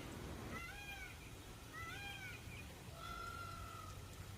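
Peafowl calling faintly: short rising-then-falling cries about a second apart, with one longer, level-pitched call after the middle.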